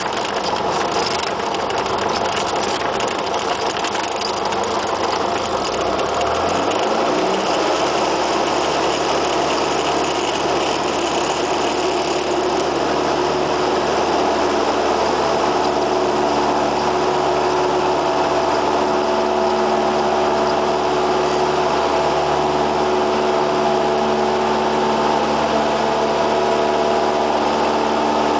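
Cessna 172R's four-cylinder Lycoming piston engine and propeller running. About six seconds in, the engine note rises as power comes up, then it runs at a steady pitch.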